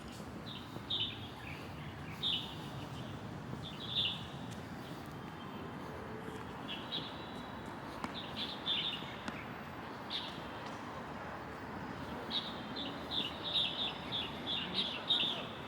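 Small birds chirping in short, high calls, scattered at first and coming in quick runs near the end, over a steady low background hum.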